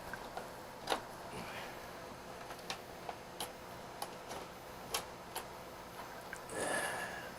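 Scattered light clicks and taps of parts and tools being handled during reassembly of a 3D printer, irregular rather than in a steady rhythm, with a brief rasping sound near the end.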